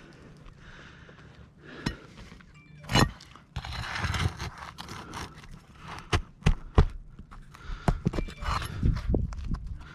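Roof shingles being pried up and their nails worked loose with a tool: scraping and crunching, a loud knock about three seconds in, then a run of sharp knocks and taps through the second half.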